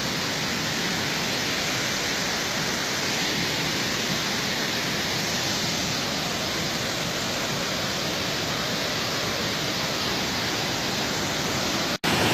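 Waterfall: a steady rush of falling water, with an abrupt, momentary break near the end.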